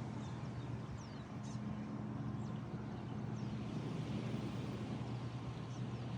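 A steady low drone, like a distant motor, over a continuous wash of noise such as surf and wind, with a few faint, short high bird chirps scattered through it.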